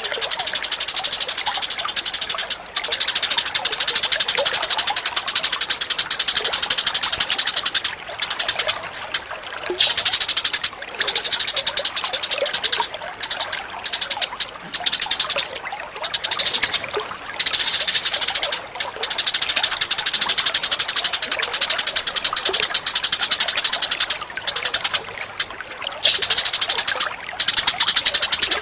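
A loud, high-pitched, very rapid trill of fast clicking notes, held for long stretches and broken by short pauses more often in the second half.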